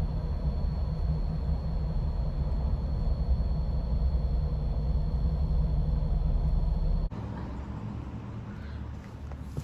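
Steady low rumble of a car driving, cutting off suddenly about seven seconds in to a much quieter background.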